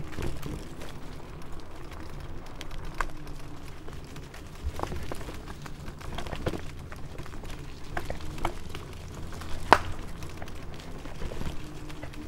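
KuKirin G2 Max electric scooter riding over a forest trail: a steady low rumble from the tyres and wind, with several sharp knocks and rattles as it goes over bumps, the loudest nearly ten seconds in.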